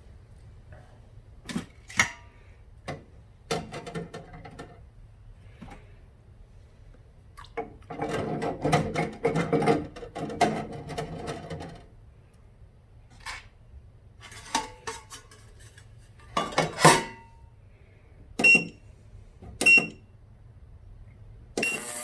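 Small metal carburetor parts clinking and rattling as they are handled and set into the ultrasonic cleaner, with a few sharp ringing clinks. Near the end the ultrasonic cleaner switches on with a loud steady hiss.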